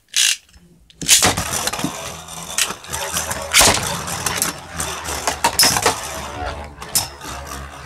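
Two Metal Fusion Beyblade spinning tops launched about a second in, then spinning and clashing in a stadium: a dense rattling whirr with many sharp metal clacks as they hit each other.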